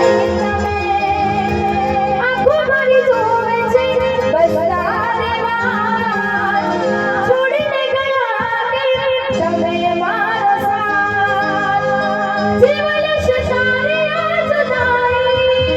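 A female singer sings a garba folk song over musical accompaniment, amplified through a PA sound system during a sound check. Her melody moves through long, wavering held notes.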